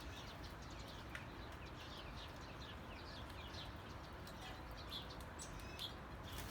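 Many small birds chirping, faint, in rapid short downward-sliding notes over a steady hiss.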